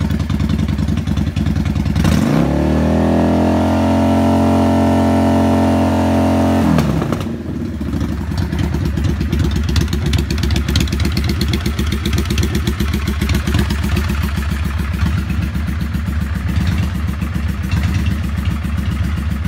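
Yamaha XVS650 V-twin motorcycle engine idling, revved up about two seconds in and held at higher speed for about five seconds, then dropping back to a steady idle.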